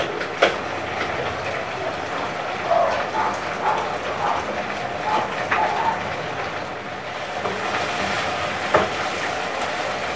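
Meat frying in oil in a pan, a steady sizzle, with a couple of sharp metal clinks from the cookware.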